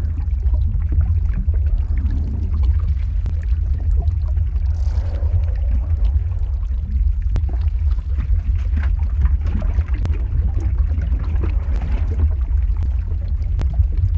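Lava-flow ambience sound effect: a steady deep rumble with faint, scattered crackles and a pouring, trickling texture above it.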